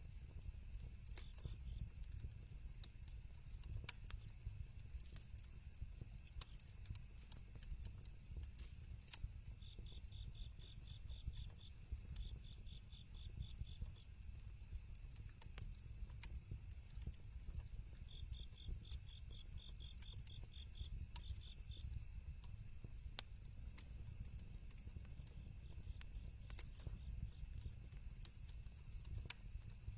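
Campfire burning with a low steady rumble and scattered crackles and pops. Crickets chirp in two runs of rapid high pulses, about a third of the way in and again past the middle.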